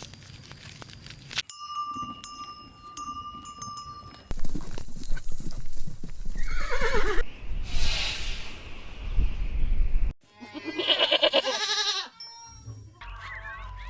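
Farm animal calls in several short spliced clips: a falling call about six and a half seconds in, and a longer wavering call about ten seconds in. Outdoor noise lies under the calls, and each clip cuts off abruptly.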